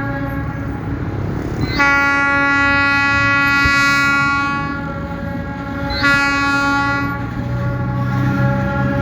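ALCO RSD16 diesel locomotive sounding its horn twice: a long blast of about three seconds, then a shorter one of about a second. The locomotive's diesel engine runs steadily underneath.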